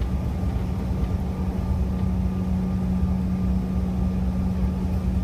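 Airliner cabin noise on the ground before takeoff: the regional jet's engines and air system give a steady low rumble with a constant hum.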